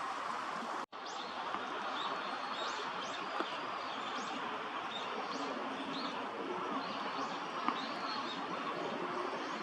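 Small birds calling with many short, high chirps over a steady background hiss. The sound drops out briefly about a second in.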